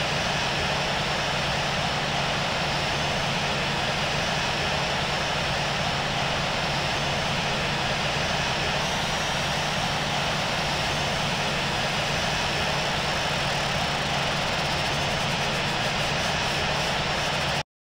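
Jet engines of an American Airlines Airbus A321 running, a steady even noise with a low hum underneath that holds level throughout and cuts off suddenly near the end.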